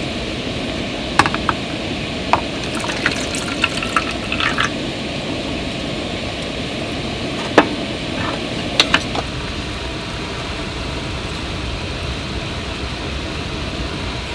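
Steady rush of running water, with a dozen or so sharp clicks and knocks scattered through the first nine seconds.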